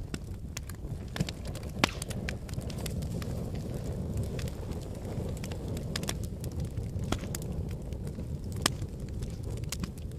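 Wood fire burning in a fireplace: a steady low rumble of flames with scattered crackles and pops, two sharper pops about two seconds in and near the end.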